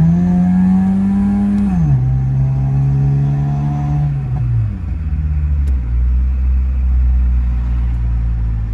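Car engine and exhaust pulling hard: the note climbs steeply, holds, then drops in pitch at a gear change about two seconds in and again around four and a half seconds, settling into a steady low drone.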